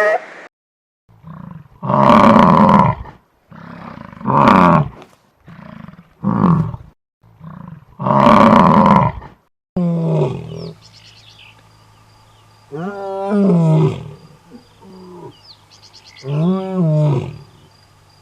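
Big cat roaring: several loud roars. From about ten seconds in, longer calls that rise and fall in pitch follow.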